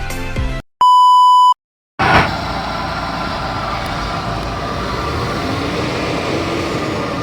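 The end of a music track, then a short electronic beep tone lasting under a second. From about two seconds in, the Mitsubishi Space Wagon's 4G93 engine runs steadily after a top overhaul for water mixing into the oil.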